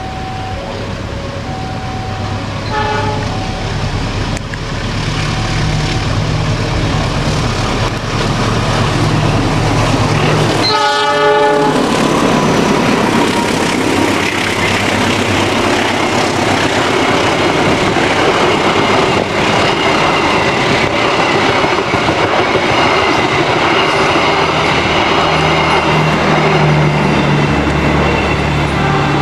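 CC 206 diesel-electric locomotive hauling a passenger train past at speed. It sounds its horn briefly about three seconds in and again, louder, about eleven seconds in as it reaches the spot. After that, the engine and the carriages' wheels clatter past in a steady, loud rush.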